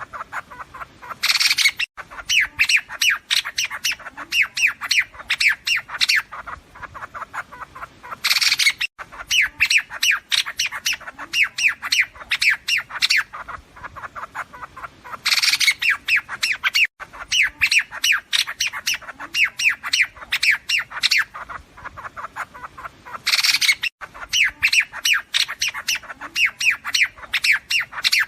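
Recorded calls of the liếu điếu bird, played as a trapper's lure. Each phrase is a loud harsh burst followed by a rapid run of sharp chattering notes, and the phrase repeats as a loop about every seven seconds.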